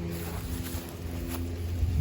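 Steady low hum of a motor or engine running, with a couple of faint clicks.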